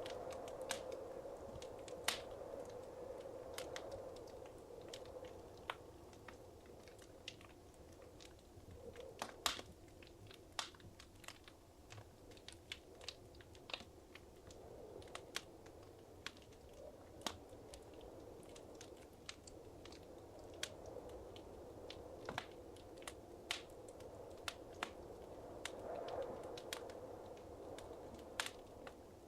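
Wood fire crackling in a fireplace: irregular sharp pops and snaps over a soft, low rush of flame that swells and fades.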